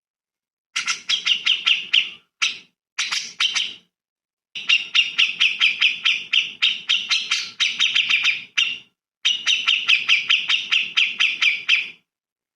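A bird giving rapid trains of sharp, chirping notes, about five or six a second, in bursts. The bursts are broken by abrupt dead silences, as in an edited recording.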